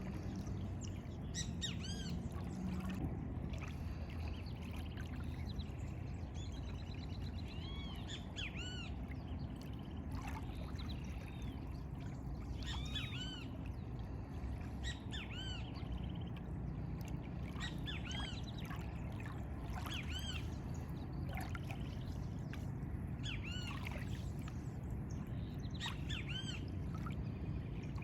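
Several birds calling, with short arched chirps repeated in quick series throughout, over a steady low background rush.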